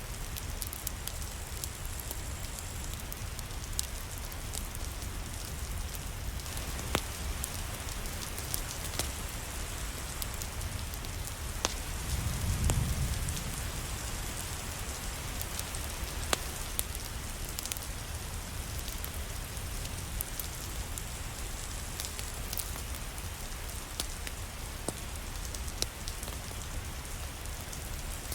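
Steady rain falling, with scattered sharp ticks throughout and a brief low rumble about halfway through.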